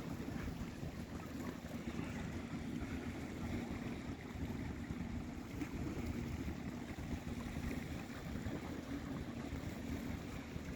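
Wind rumbling on the microphone, with a faint steady low hum underneath.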